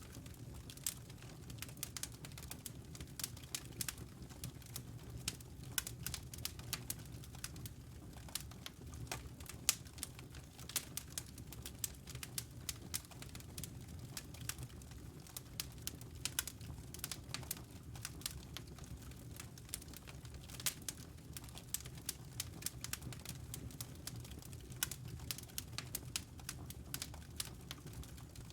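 Wood fire in a fireplace crackling: a dense, irregular run of sharp pops and snaps over a steady low rumble.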